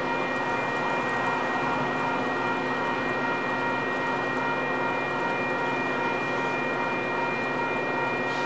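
Diesel locomotive of a Metra commuter train running steadily: an even hum with several constant engine tones and no change in pitch or level.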